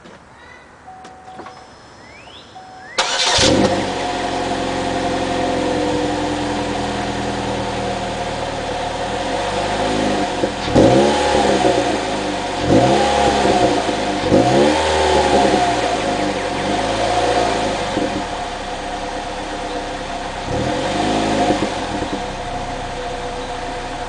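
2007 Pontiac G5's four-cylinder engine and exhaust starting about three seconds in, then idling. It is revved several times in quick succession, each rev rising and falling back to idle, with two more single revs later.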